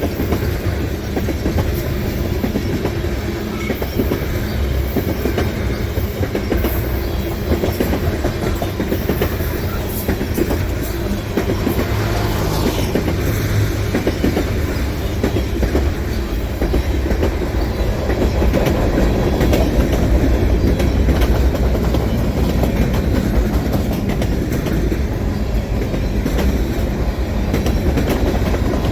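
Freight cars of a long mixed manifest train rolling past at speed: a steady rumble of steel wheels on rail with a constant rapid clicking over the track.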